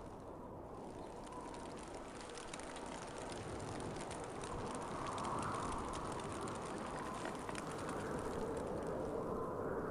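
Winter wind blowing steadily, swelling in gusts and growing louder through the second half.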